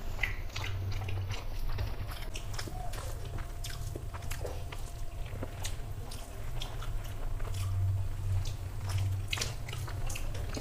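Two people chewing rice and curry eaten by hand, with wet mouth smacks and many short sharp clicks scattered throughout.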